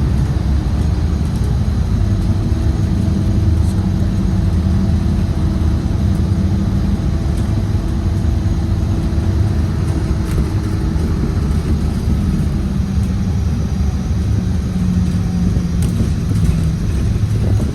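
Scania Citywide LE CNG city bus running: a steady low rumble with a faint engine hum held through it, and a shift in pitch near the end.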